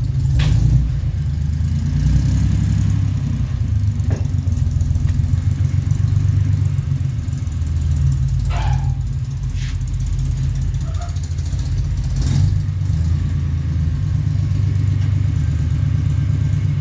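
1969 Jeep Willys CJ5's engine running steadily as the Jeep is driven forward, with a few short knocks over it.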